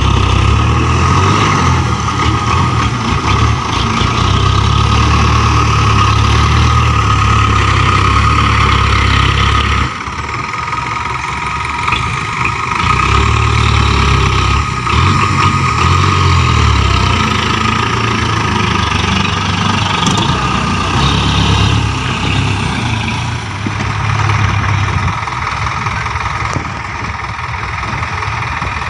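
Dump truck diesel engines running under load, with a steady high whine over the low engine rumble. The level dips briefly about ten seconds in.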